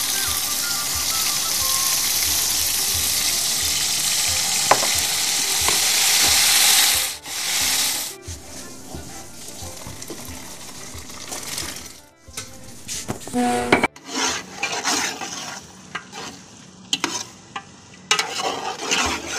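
Tomato-and-spice masala sizzling as it fries in a steel pot, stirred with a metal spoon. After about seven seconds the steady sizzle cuts off, and later a metal spoon scrapes and knocks irregularly in the pot as peas are stirred into the masala.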